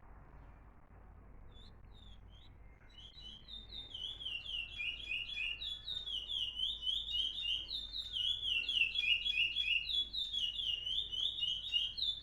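A caged songbird singing a fast, unbroken run of repeated falling whistled notes. It starts softly about a second and a half in and grows steadily louder.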